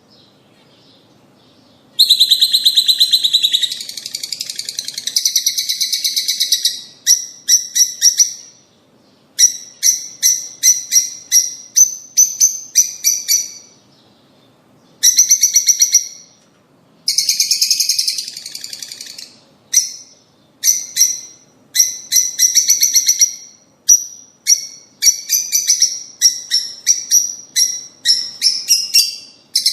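Lovebirds (rosy-faced and Fischer's) calling: loud, high-pitched rapid runs of chirps and chattering in bursts of a few seconds, with short pauses between.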